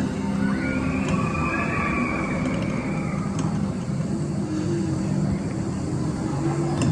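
Roller coaster motorbike train rolling along its track, a steady low rumble of wheels and ride noise, with a faint high whine over the first few seconds.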